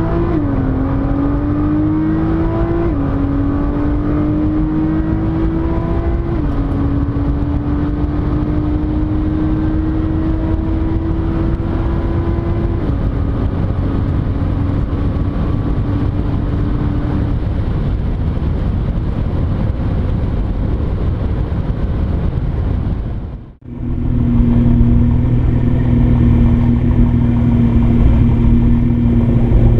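Nissan GT-R R35's twin-turbo V6 under full-throttle acceleration, its pitch climbing and dropping sharply at each of several quick upshifts before fading into road and wind noise. After a sudden break, the engine holds a steady drone.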